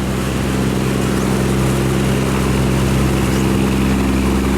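Diesel engine of a laden 1,000-ton river barge running at full throttle as it passes close by: a loud, steady engine note, slightly swelling at first and then holding steady.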